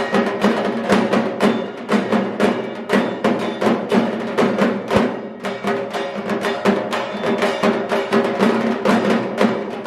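Fast percussion music: drums beaten in a quick, steady rhythm of several strokes a second, over held tones.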